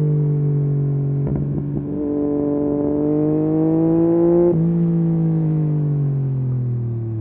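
Yamaha MT-09 SP's three-cylinder engine through a full Akrapovic race exhaust, ridden on the road. It runs steadily, breaks briefly with a few crackles, then rises in pitch as the bike accelerates for about two and a half seconds, cuts sharply at a gear change, and the pitch falls slowly as the bike slows.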